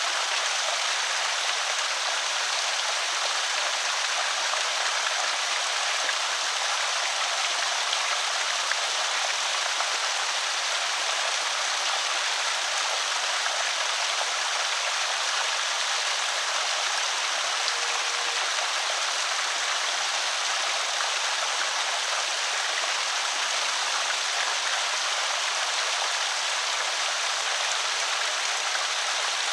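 Water pouring steadily over a small creek spillway, a continuous even rush.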